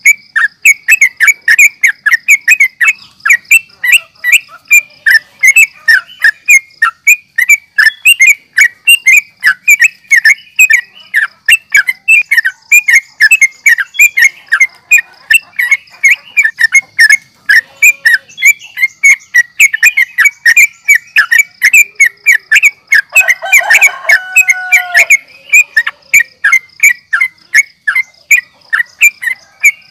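Yellow-vented bulbul (trucukan) singing a fast, unbroken chatter of short chirps, two to three a second, over a faint steady high whine. About twenty-three seconds in, a lower call with a downward bend cuts across the chatter.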